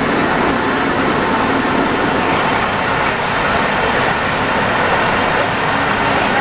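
Santiago Metro NS-74 rubber-tyred metro train running, a steady, even rolling noise with no let-up.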